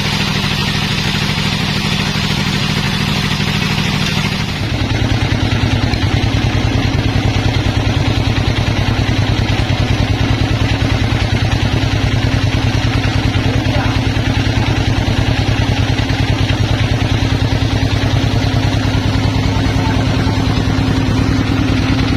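A sawmill's engine running steadily and loudly. A high hissing sound over it stops about four and a half seconds in, and from then on the engine runs on alone with an even, pulsing beat.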